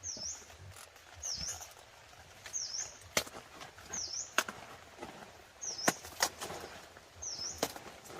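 A bird repeating a short high chirp that dips and rises in pitch, about once every second and a half. Several sharp clicks or snaps, the loudest sounds, fall between the calls from about three seconds in.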